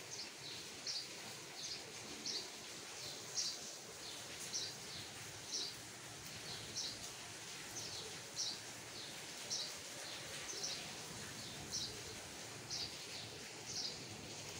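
A bird chirping over and over, short high chirps about once a second, over a steady outdoor background hiss.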